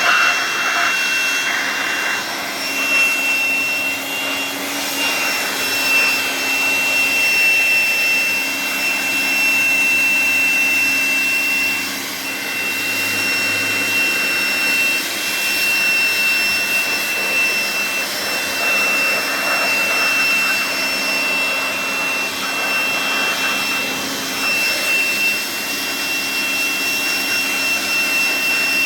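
Electric air blower running steadily with a constant high-pitched whine, blowing out a refrigerator.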